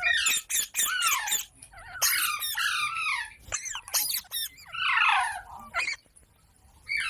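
Parrot calling: bouts of high-pitched, wavering calls and short clicks in quick succession, falling quiet about a second before the end.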